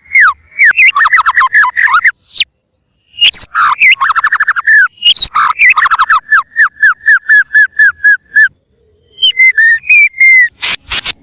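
White-rumped shama singing loudly: fast runs of repeated, down-slurred whistled notes in bursts, with short pauses between phrases. Three sharp, harsh sounds come near the end.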